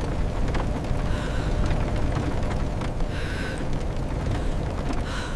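Blizzard wind: a loud, steady, deep rushing noise with a brighter rush about every two seconds.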